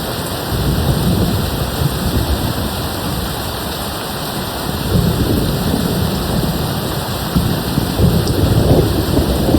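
Steady rain hissing throughout, with distant thunder rolling low beneath it in swells that come and go, strongest about a second in, halfway through and near the end.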